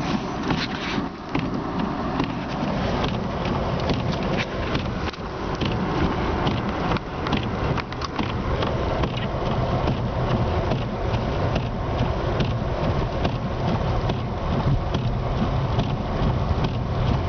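Car driving through heavy snow, heard from inside the cabin: steady road and engine noise, with many small irregular ticks and clicks.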